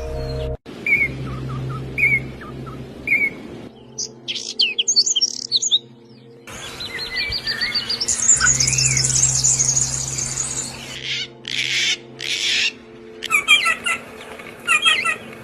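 Small birds chirping and singing in a run of short spliced recordings that change abruptly several times: sharp repeated chirps, then rapid trills and a long high chittering passage. A steady low drone sits under parts of it.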